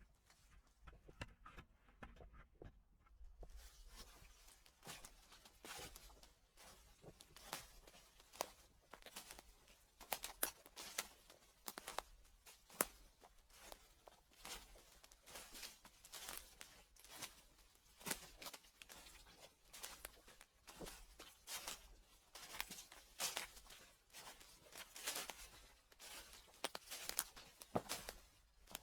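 Footsteps crunching and crackling through dry fallen leaves, in a slow steady walk of about one step a second. The first few seconds are quieter.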